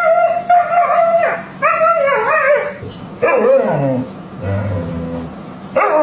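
A dog howling in a run of long, wavering calls, about four in a row, one sliding down low near the middle.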